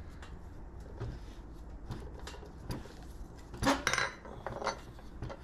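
Small metal clicks and clinks of a copper-tube flaring tool being worked and its yoke tightened down on the pipe, with a louder metallic clatter about two-thirds of the way through.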